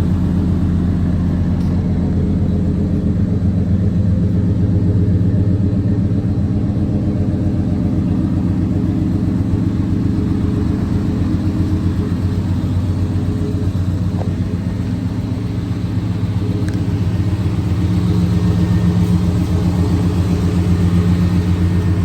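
1993 Chevrolet 1500 pickup's engine idling steadily, dipping a little in loudness about fifteen seconds in before coming back up.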